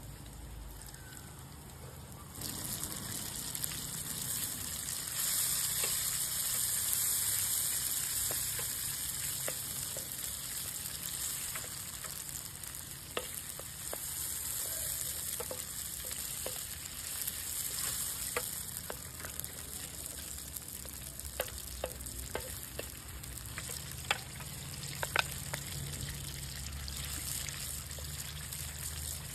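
Food sizzling in a cast iron pan over a campfire. The sizzle starts about two seconds in and grows louder a few seconds later, with scattered sharp pops and crackles.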